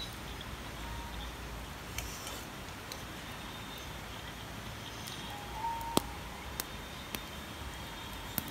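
Steady outdoor background hiss with a few brief high tones and several sharp clicks or pops, the loudest about six seconds in.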